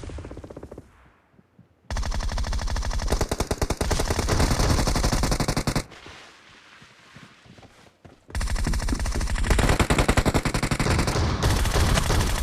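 Video-game automatic weapon fire in two long bursts of rapid shots. The first starts about two seconds in and lasts about four seconds. The second begins a little past the middle and runs on, after a brief lull.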